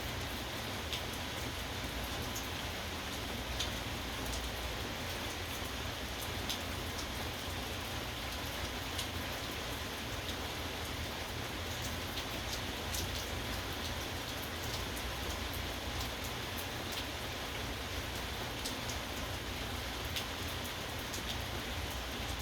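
Steady rain falling, with scattered sharp ticks of single drops striking close by. No thunder.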